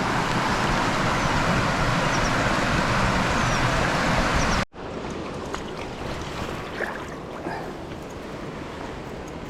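Waterfall pouring into a pool, a loud steady rush of falling water. Just under five seconds in it cuts off abruptly and comes back noticeably quieter.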